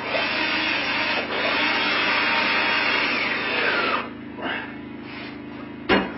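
Power drill driving a screw, running for about four seconds with a brief pause about a second in and slowing as it stops. A sharp click comes near the end.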